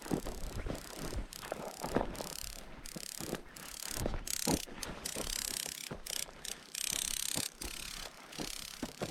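Footsteps crunching over dry, gravelly ground, in an irregular run of clicks and scuffs with rustling between them.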